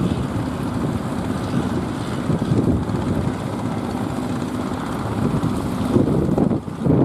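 Strong wind buffeting the microphone: a dense, gusting rumble.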